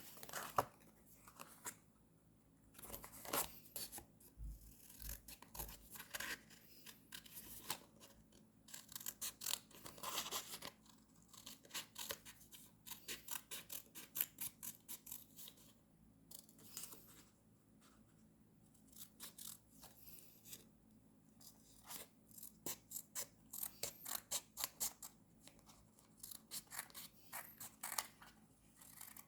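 Scissors snipping paper in quick runs of short cuts, with brief pauses between the runs.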